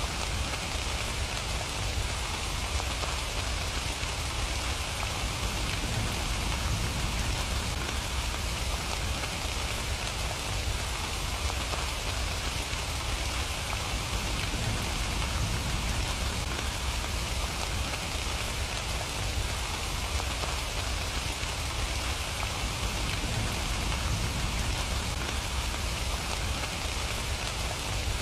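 Steady rain falling, an even hiss without pause, with a low rumble underneath.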